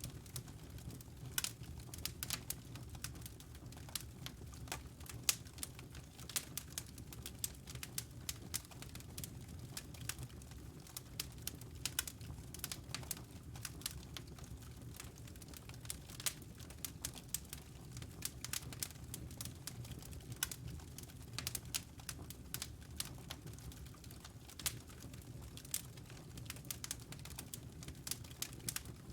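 Wood fire crackling in a fireplace: many irregular sharp pops and snaps over a low, steady rumble of the burning fire.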